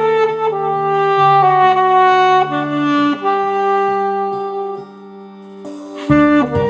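Alto saxophone playing a slow melody in long held notes over a musical accompaniment. It drops to a softer passage about five seconds in, then comes back strongly near the end.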